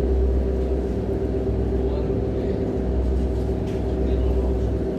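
Engine running steadily: a low rumble with a steady hum over it.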